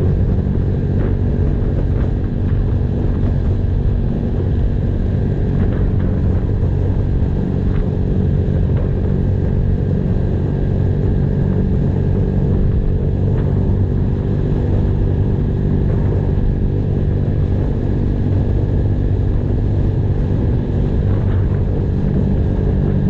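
Honda Blade's single-cylinder four-stroke engine running at a steady speed through an aftermarket racing exhaust while the motorcycle is ridden.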